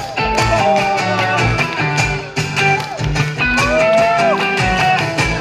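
Live rock band playing an instrumental passage of the song: guitar leads with bent, gliding notes over bass and a steady beat.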